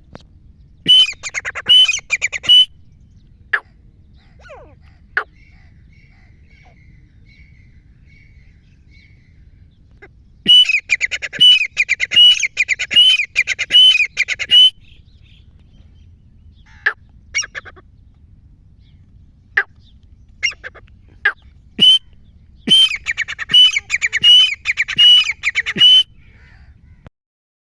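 Grey francolin (teetar) calling: three loud bouts of rapid, shrill, repeated notes, each rising at the end, with single sharp call notes between the bouts.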